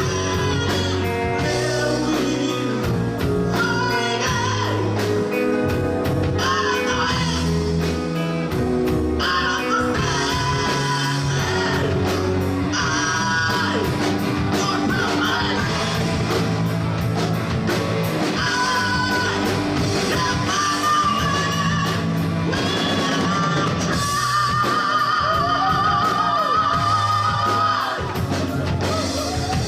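Live rock band playing a ballad: sung vocals over electric guitar, bass and drums, with a long held, wavering note about three-quarters of the way through.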